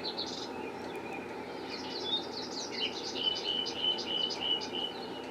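Small birds chirping and twittering, with a quick run of short, evenly repeated high notes over the second half, above a steady background hiss.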